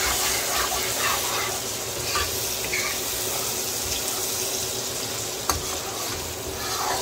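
Onion-tomato curry masala sizzling as it fries in a nonstick kadai while a spatula stirs it, scraping through the pan, with one sharp tap about five and a half seconds in.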